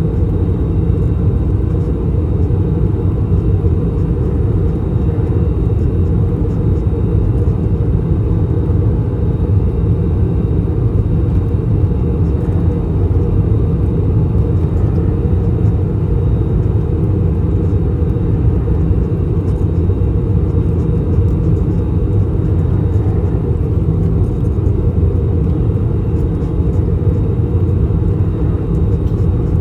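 Steady low rumble inside the cabin of an Airbus A321 descending in flight: airflow over the fuselage and the drone of its IAE V2533 turbofan engines.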